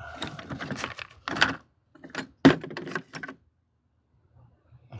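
Metal sockets and hand tools clinking and rattling as they are rummaged through, with one sharp clack about two and a half seconds in; the rattling stops a little over three seconds in.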